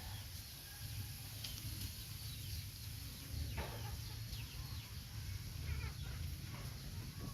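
Chickens clucking in short scattered calls over a steady low rumble.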